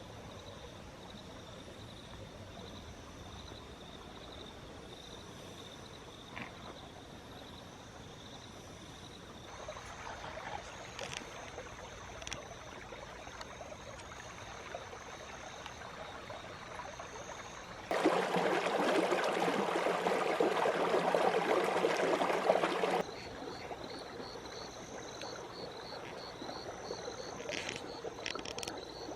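Insects chirring steadily in a high, thin tone that pulses toward the end. About eighteen seconds in, a louder even rushing noise starts abruptly, runs for about five seconds and cuts off just as suddenly.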